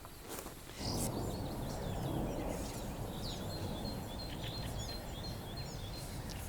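Small birds chirping and singing, with a repeated high note among the calls, over a steady low rushing noise that sets in about a second in.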